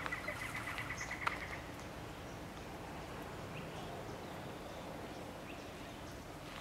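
A bird's rapid, evenly pulsed trill lasting about a second and a half, over steady outdoor background noise, with a single click partway through and a few faint chirps later.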